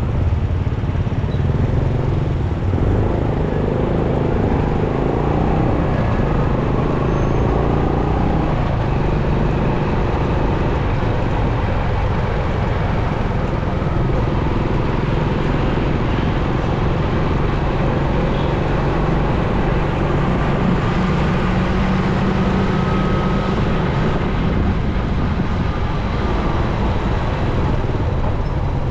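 Motorcycle riding through city traffic: the bike's engine running steadily amid the mixed noise of surrounding cars and motorbikes.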